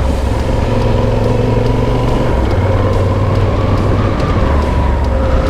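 Yamaha Super Tenere's parallel-twin engine running steadily under way, with wind and road noise; its low drone shifts in pitch twice.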